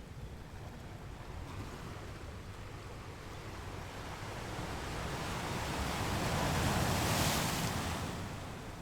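Ocean waves on a beach: a wave builds over a few seconds, breaks with a rush of surf about seven seconds in, then washes back.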